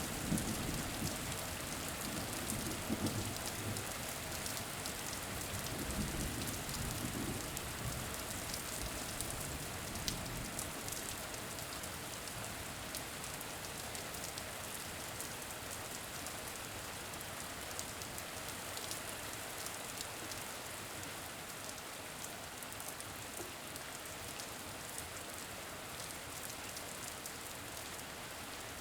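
Steady rain falling, a continuous patter with fine crackle. A low rumble underneath dies away over the first eight seconds or so.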